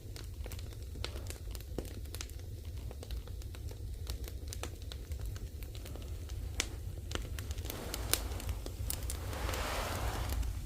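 Firewood burning in an agungi, the traditional Korean firebox, crackling with irregular sharp pops over a low steady rumble. A rushing hiss swells about eight seconds in and fades near the end.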